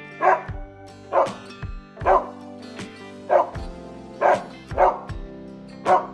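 A dog barking, about seven single barks roughly a second apart, over background music with steady held notes.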